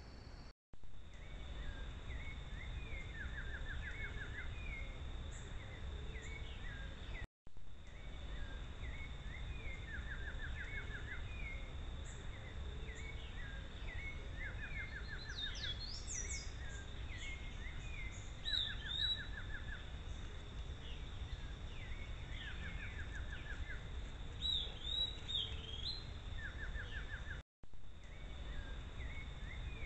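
Birds calling in woodland, heard through a camera trap's microphone. A phrase of short chirps and a brief trill repeats every couple of seconds, with louder, higher calls now and then, over a steady high tone and low background hiss. The sound cuts out briefly three times, where the camera clips are joined.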